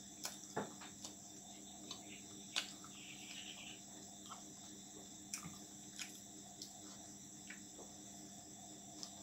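Quiet eating sounds: scattered sharp mouth clicks and crunches as fried potato bhujia and roti are chewed, the loudest about two and a half seconds in. A steady high-pitched drone runs underneath.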